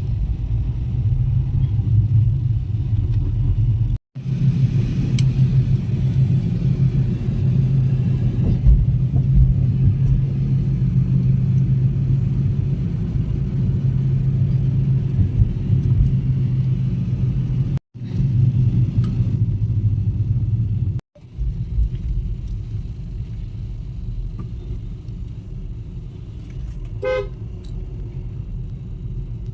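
Steady low rumble of a car driving on the road, with a short vehicle horn toot near the end. The sound drops out suddenly three times for a moment.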